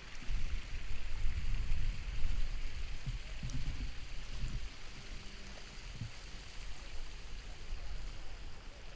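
Outdoor ambience: an uneven low rumble, loudest in the first half, over a steady hiss.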